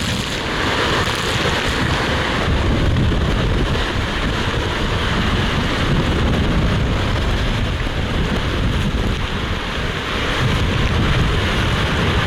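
Hurricane Helene's wind blasting against the microphone: a loud, steady rush with a heavy low rumble that swells and eases in gusts.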